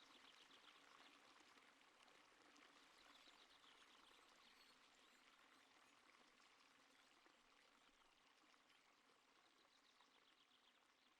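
Faint, steady running water of a stream, slowly fading out.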